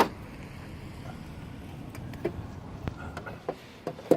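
Sharp metallic clicks, one at the start and another near the end, with lighter clicks and clinks between: hand tools and metal parts being handled and fitted together.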